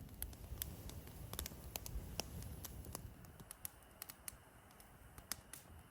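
Small campfire of twigs and branches crackling, with irregular sharp pops and clicks several times a second.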